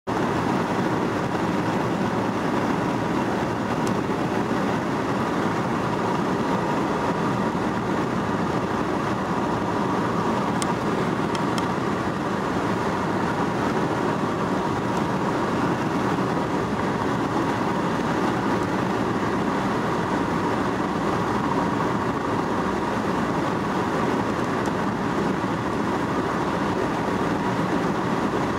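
Steady road and tyre noise of a car cruising at motorway speed, unchanging throughout.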